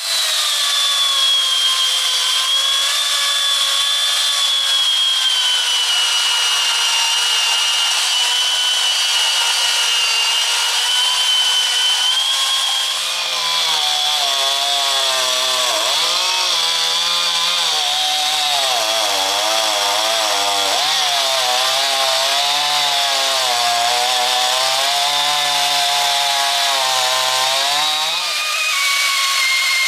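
Chainsaw running with a steady high whine, then cutting into wood from about halfway in. Its pitch dips and wavers under the load of the cut, and it eases off near the end.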